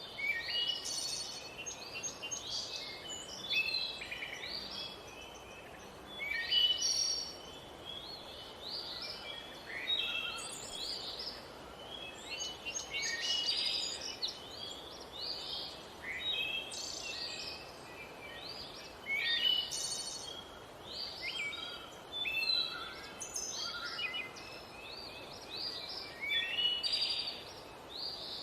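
Birdsong: short phrases of quick chirps and trills, coming every two to three seconds over a faint steady hiss.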